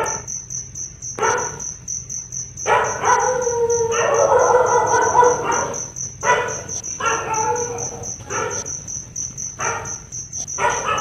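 A dog barking and whining in a string of short calls, with one long drawn-out whine from about three to five and a half seconds in. Under it runs a steady high pulsing chirp, about three pulses a second.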